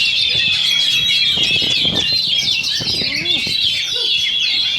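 Oriental magpie-robins singing loudly, a dense, unbroken stream of rapid chirps and whistles, with people's voices underneath.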